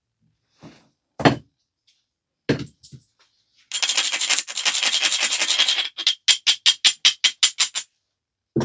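A few sharp knocks of stone and tools, then the edge of a flint biface being rubbed with an abrader: about two seconds of continuous gritty scraping, then about a dozen quick back-and-forth strokes, some six a second, grinding the edge to prepare it for flaking. One more knock comes at the very end.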